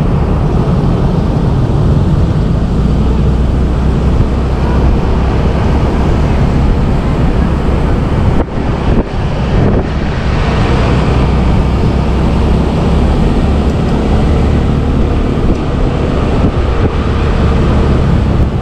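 Motorbike engine running during a ride, with wind rushing on the microphone and a brief dip in loudness about eight and a half seconds in.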